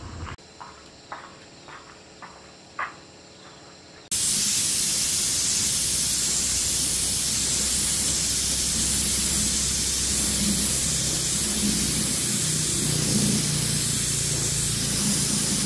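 A few short faint ticks, then about four seconds in a loud, steady high-pressure spray hiss starts suddenly, with a low hum beneath it, as when engine parts are blasted clean.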